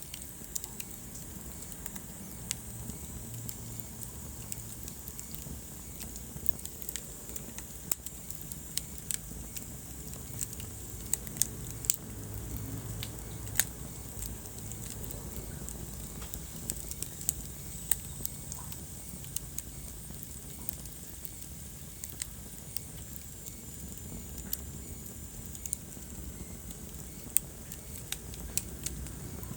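Wood fire burning in a fireplace, crackling with frequent sharp pops and snaps over a steady low rumble of the flames.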